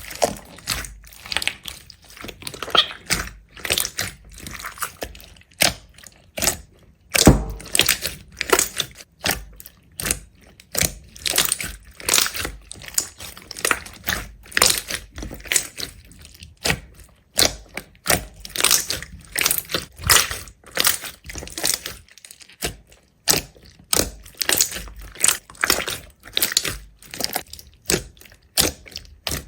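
A long series of dry crunching sounds, a few sharp crackles a second, as something brittle is crushed, with one heavier thud about seven seconds in.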